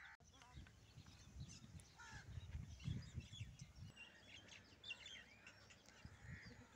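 Faint outdoor birdsong: several birds chirping and calling in short, high notes, over irregular low rumbles on the microphone.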